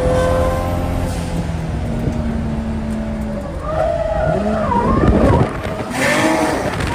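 Drift car on track: the engine runs at steady high revs, then about halfway through the tyres squeal with a wavering pitch as the car slides, loudest about five seconds in.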